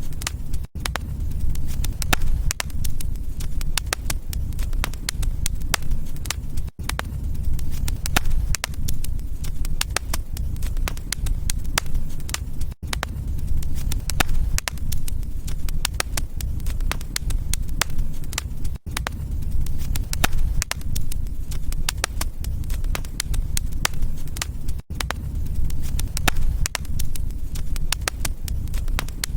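Wood fire crackling and popping: many irregular sharp pops over a steady low rumble of burning. The sound cuts out for an instant about every six seconds.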